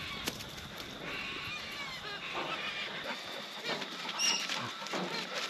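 Birds calling outdoors, with a sharp click near the start and a short high chirp about four seconds in.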